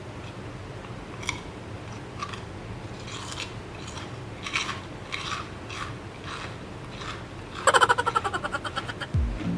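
Close-up crunching and chewing of a crisp snack, a series of separate crunchy bites. Near the end, loud music with falling bass slides comes in over it.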